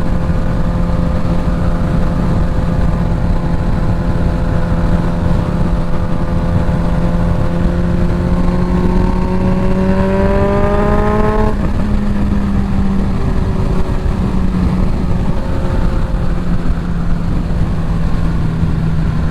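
Suzuki GSX-S1000's inline-four engine through a full Dominator exhaust under way, with heavy wind noise on the mic. The engine note holds steady, climbs for a few seconds past halfway, drops suddenly at what sounds like an upshift, then settles steady again.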